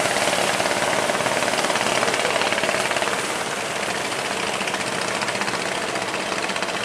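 A fishing boat's engine running steadily with a rapid, even beat. It eases slightly about three seconds in.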